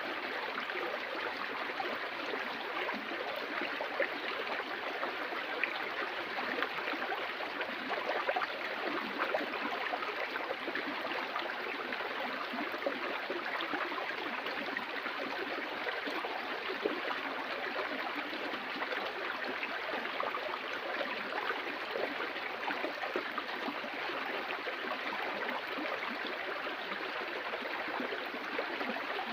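Stream water flowing and babbling steadily over rocks, a constant rushing with small splashes.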